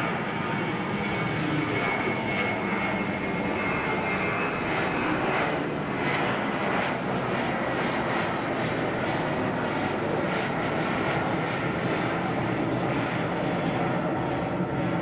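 Airbus A321 airliner's jet engines, a steady noise with a high whine over it that fades out about five seconds in.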